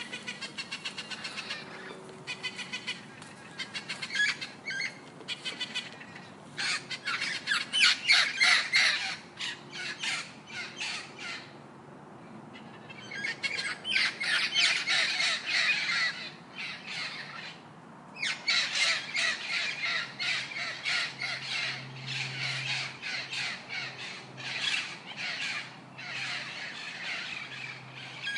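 Parrots squawking: harsh, rapidly repeated calls coming in bouts with brief lulls between them.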